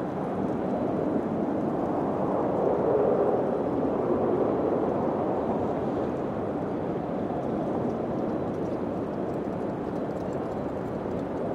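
Wind blowing, a steady rushing that swells about three seconds in and then slowly eases.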